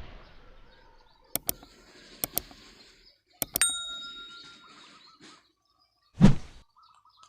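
Three pairs of sharp clicks, the last followed by a short ringing ding, then a single dull thump about six seconds in, over faint bird chirps.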